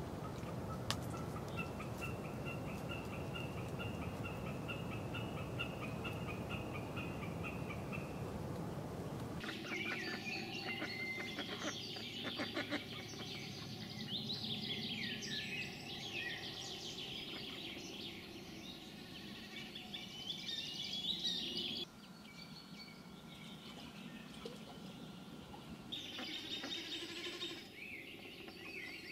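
Wild birds calling in spring: at first a single high, rapid trill repeating for several seconds over a low rumble, then a dense chorus of chirps and songs from many birds.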